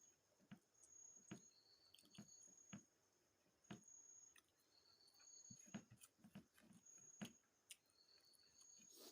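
Faint, close-miked chewing and wet mouth clicks of someone eating chicken curry with rice: soft, irregular smacks.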